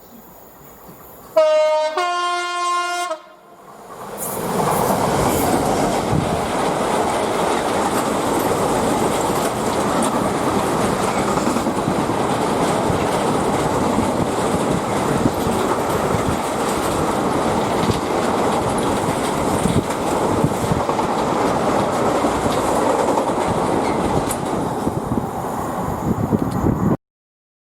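A train sounds a two-note horn for about two seconds, then passes close by with a loud, steady rush of wheel and rail noise lasting about twenty seconds, which cuts off abruptly near the end.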